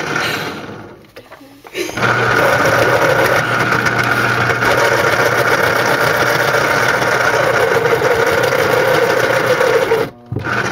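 Electric pencil sharpener motor running as a pencil is ground, steady and loud. It cuts out briefly about a second in, runs again for about eight seconds, then stops near the end with a short restart.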